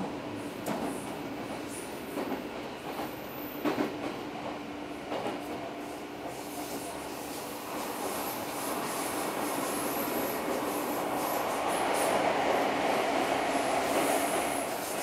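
Running noise heard inside an Odakyu 4000 series electric train car: wheels clicking over rail joints, then a high thin wheel squeal on a curve from about halfway through. Near the end the noise swells as another train passes close alongside.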